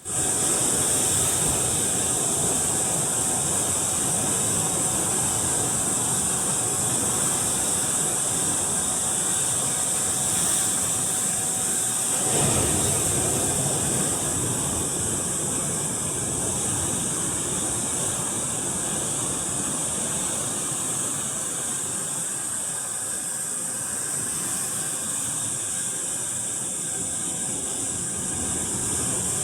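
Steady, high-pitched buzzing drone of an insect chorus in the trees, with a louder rushing swell about twelve seconds in.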